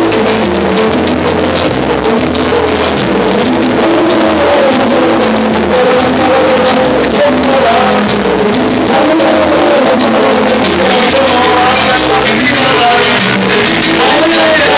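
Live salsa band playing, with singing over a stepping bass line. The recording is loud and harsh.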